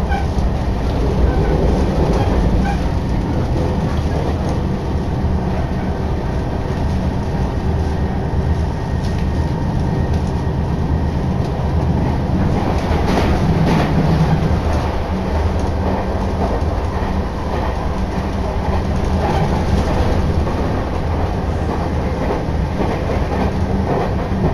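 Sotetsu Line train in motion, heard from inside the passenger car: a steady running rumble of wheels and car body, with a short burst of clatter about halfway through.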